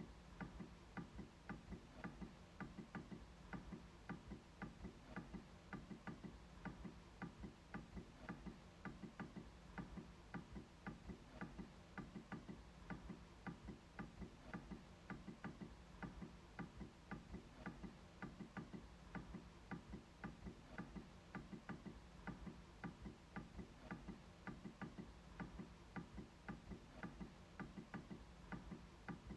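MacBook trackpad being clicked over and over in a quick, even run of sharp clicks, about two to three a second.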